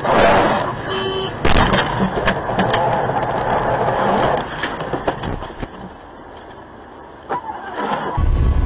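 Vehicle collision: a sharp crash about a second and a half in, followed by scattered clattering that dies away. A steady vehicle rumble starts near the end.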